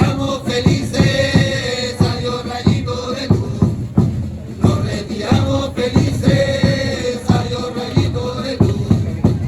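Drums of a Chilean religious dance troupe beating a steady rhythm, under chanted singing of a devotional verse to the Virgin.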